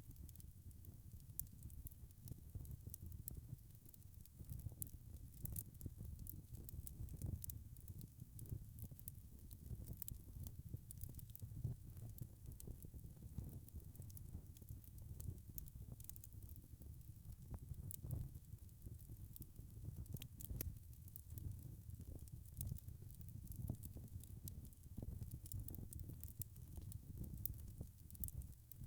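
Wood fire crackling in a fireplace: a dense, irregular scatter of small sharp pops and snaps over a low, steady rumble of flame.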